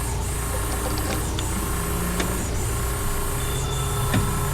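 An engine running steadily, with a constant low hum and a few small clicks.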